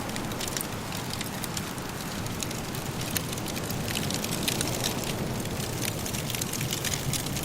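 Wood fire in a fireplace crackling, with frequent sharp pops and snaps over a steady soft rushing noise.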